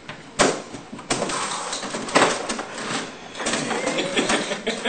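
Objects being handled and unpacked: repeated sharp knocks and clicks over rustling and clattering, the loudest knocks about half a second and about two seconds in.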